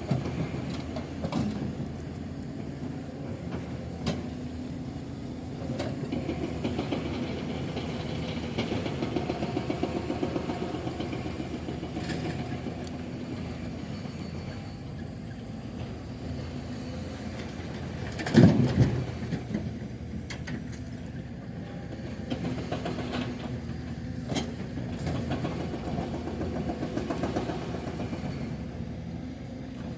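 Heavy diesel engine running steadily with a low, fast pulsing, with scattered knocks and one loud bang about two-thirds of the way through.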